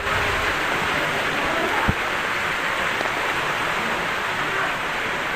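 Steady rush of falling, splashing water, with one brief low thump about two seconds in.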